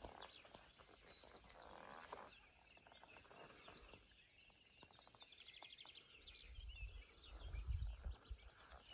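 Faint songbirds calling and trilling in the morning quiet. A low rumble comes in near the end.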